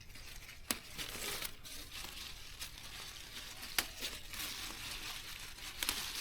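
Crinkling, rustling handling noise, broken by three sharp snaps or clicks spread through it.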